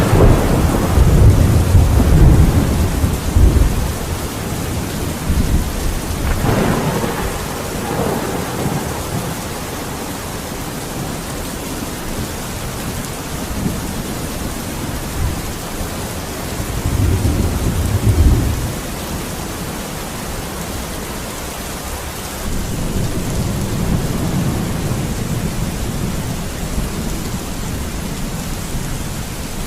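Steady rain with rolls of thunder: a long low rumble in the first few seconds, another around a quarter of the way in, a shorter one past the middle, and a softer rolling rumble near the end.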